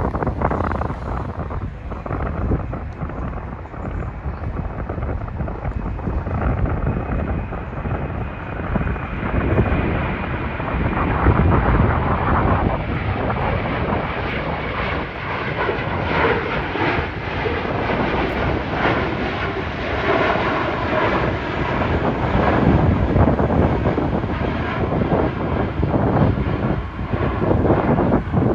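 Jet airliner's engines at takeoff power on departure: a steady roar with a faint whine in it, growing brighter over the first twenty seconds or so and then holding.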